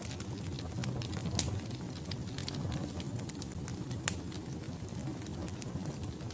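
Logs burning in a fireplace: a steady low rush of flame with frequent small crackles and a few sharper pops, the loudest about four seconds in.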